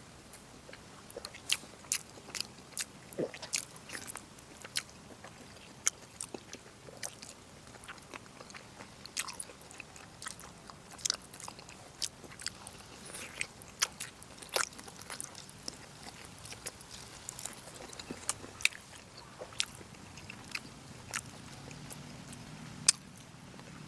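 Close-miked chewing and biting of braised pork, with wet mouth smacks and sharp irregular clicks, sometimes several a second.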